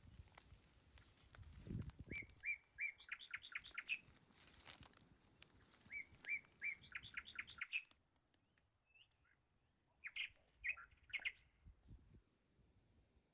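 A small songbird singing twice: each phrase is a few evenly spaced notes followed by a quick trill. A few short chirps come near the end.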